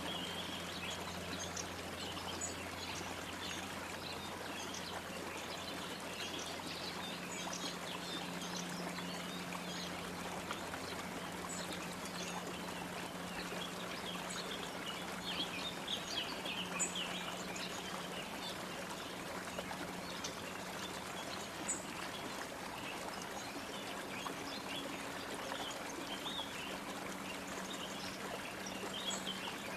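Running water, like a stream, flowing steadily, with many brief high bird chirps scattered over it.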